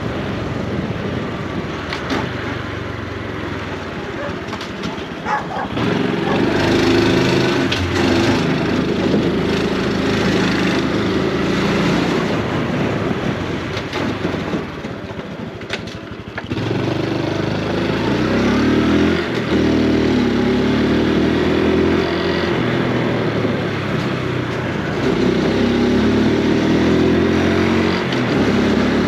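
Honda Super Cub C125's 125 cc single-cylinder four-stroke engine and exhaust running under way. It pulls harder from about six seconds in, eases off just past the middle, and pulls again soon after.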